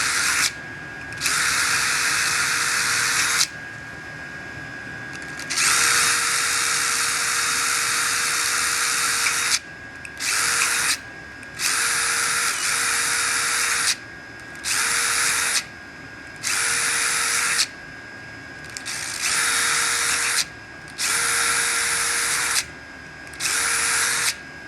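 Power drill running in repeated bursts of one to four seconds, stopping and starting about ten times as it bores a row of holes in a diesel heater's housing.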